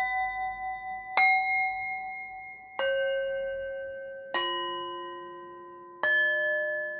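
Struck bell tones sounding one after another, four strikes about a second and a half apart. Each strike is at a different pitch and keeps ringing as the next one sounds.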